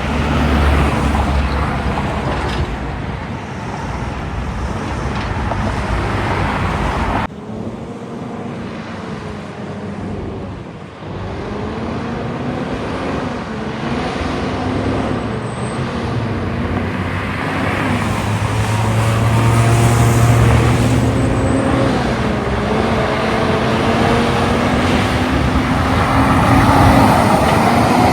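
Roadside traffic with heavy trucks and cars passing. About seven seconds in the sound changes abruptly, and after that an engine is heard rising and falling in pitch in steps, as a truck pulls away through its gears.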